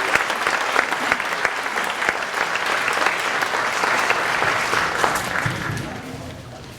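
Audience applauding at the end of a song, the clapping thinning out and fading away over the last couple of seconds.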